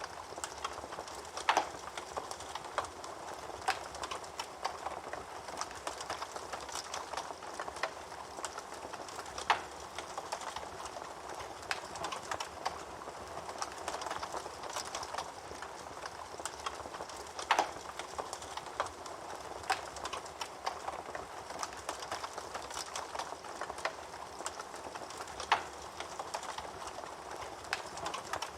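Wood fire burning in a fireplace: a steady crackle with many small pops, and four louder sharp snaps about eight seconds apart.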